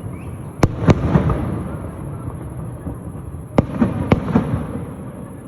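Fireworks bursting: two pairs of sharp bangs, the first just under a second in and the second past three and a half seconds, each followed by a rolling rumble and crackle.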